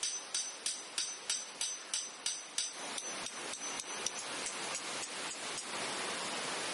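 Claw hammer driving a titanium tent peg with quick, even blows, about three a second, each ringing with a high metallic tone. Halfway through the blows grow fainter under a steady rushing noise, which is all that is left near the end.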